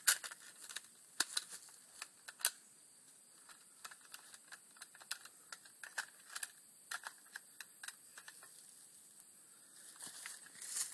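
Faint scattered clicks and light rustles, irregular and denser in the first few seconds, with a louder rustle near the end.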